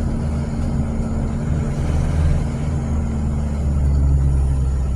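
Car on the move: a steady low engine and road drone.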